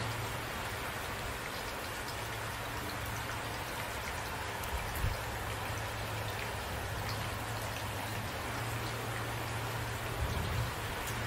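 Steady rain falling, with scattered drop ticks over a constant low rumble. Brief low thumps come about five seconds in and again near the end.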